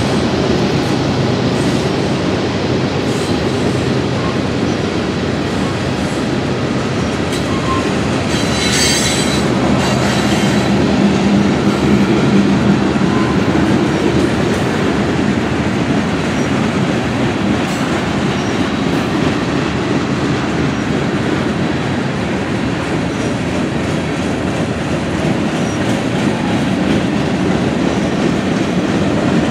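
Freight cars rolling past: boxcars, a tank car and covered hoppers, with steady wheel and rail noise. A brief high wheel squeal comes about nine seconds in.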